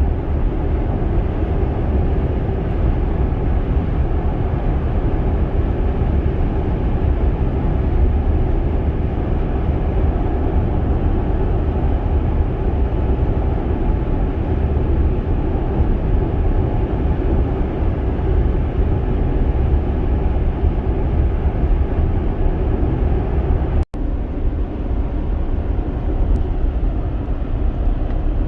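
Steady road and tyre rumble with wind noise inside a Tesla's cabin as it drives along; the electric drive adds no engine note. The sound cuts out for an instant about 24 seconds in.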